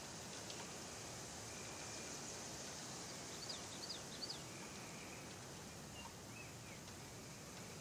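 Outdoor ambience with a steady hiss. A bird chirps a few quick high notes about three and a half seconds in, and twice more near six seconds, while a faint high trill returns every few seconds.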